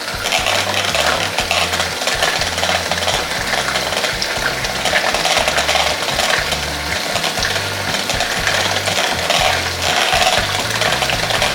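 Background music with a bass line, over the irregular scraping and stirring of a utensil working a batter in a mixing bowl.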